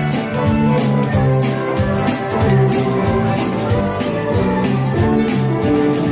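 Live country band playing an instrumental passage with no singing: pitched instruments over a steady drum beat, with a shaker or tambourine on top.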